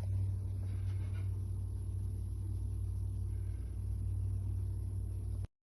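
Steady low rumbling hum with faint background noise, cutting off abruptly near the end.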